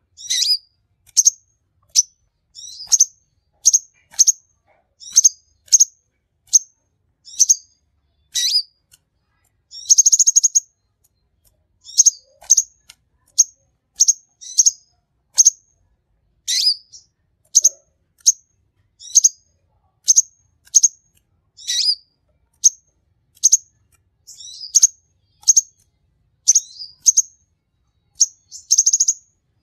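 A sunbird singing steadily: a run of short, high, sharp chirps, about one to two a second, broken by a longer buzzy trill about ten seconds in and again near the end.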